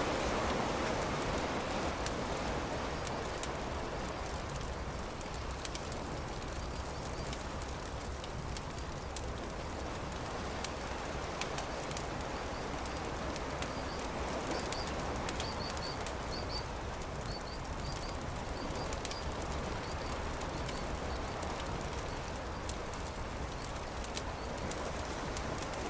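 Campfire crackling in scattered sharp pops over a steady wash of surf that swells and fades slowly. Through the middle a bird chirps repeatedly in short, high paired notes.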